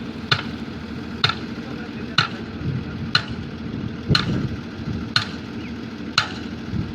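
Heavy dump truck's diesel engine running steadily, with a sharp click about once a second.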